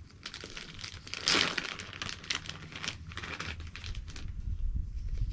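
Plastic cheese packaging crinkling and being torn open, a run of crackles with the loudest about a second and a half in, and some low rumbling near the end.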